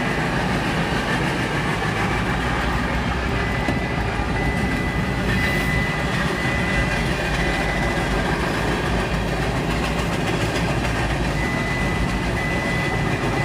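Steady road noise inside a moving car: a constant low rumble and tyre hiss, with a faint high whine that comes and goes.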